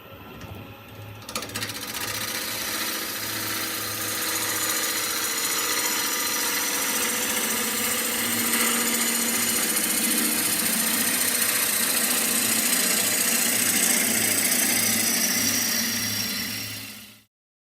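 Wood lathe running while a turning tool cuts into a spinning wooden bowl blank: a steady motor hum under a loud hissing cut that builds over the first few seconds and cuts off suddenly near the end.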